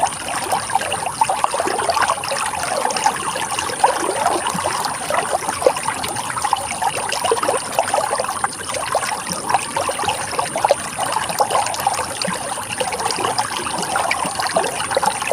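Running water trickling and splashing steadily, a dense patter of small splashes over a continuous rush.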